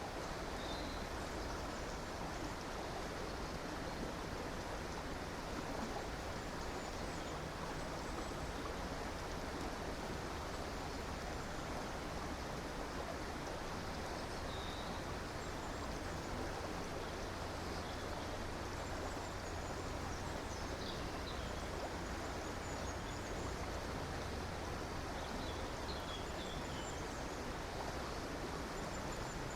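A river flowing steadily, with an even rush of water. Faint, brief bird chirps come now and then above it.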